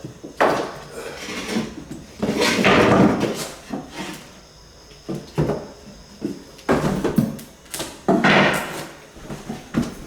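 Hardwood floorboards being handled and fitted: scattered sharp wooden knocks and two longer scraping slides of wood on wood, one about two seconds in and one near the end.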